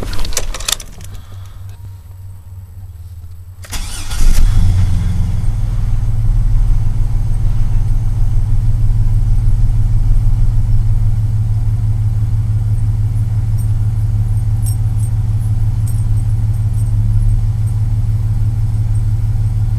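Truck engine started: a short burst of starter cranking about four seconds in, then the engine catches and idles steadily.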